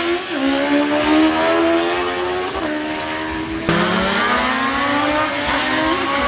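An engine at full throttle on a drag run, its pitch climbing through each gear and dropping sharply at each upshift, about every two seconds. The sound changes abruptly a little past halfway, when the engine note falls low and starts climbing again.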